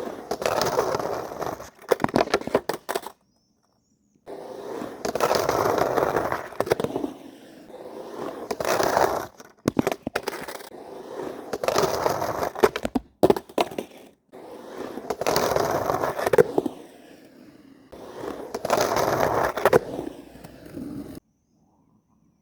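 Skateboard wheels rolling and trucks grinding, in repeated runs of a few seconds. Sharp clacks of the board striking the ground come between the runs, and the sound cuts to silence twice.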